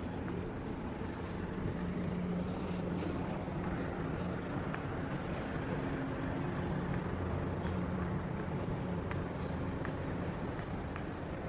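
A vehicle's engine running with a steady low hum amid outdoor street ambience, with a few faint ticks.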